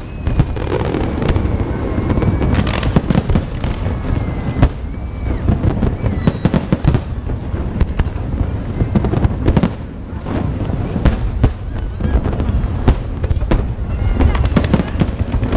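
Fireworks display: a dense run of sharp bangs and crackles over a continuous low rumble, with a few high whistling tones in the first half.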